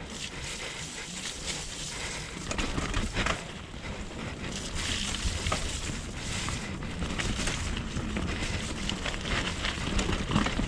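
Mountain bike riding down a wet dirt trail: steady tyre and wind noise with many small irregular rattles and knocks from the bike.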